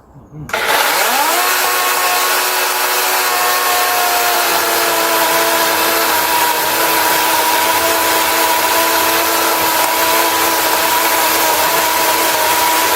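DeWalt 18 V cordless chainsaw's electric motor starting about half a second in. Its whine rises quickly, then runs steadily and loudly, settling slightly lower in pitch after a few seconds.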